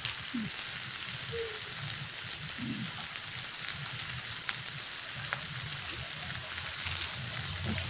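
Chicken and vegetables frying in a wok, a steady sizzle with a few faint ticks.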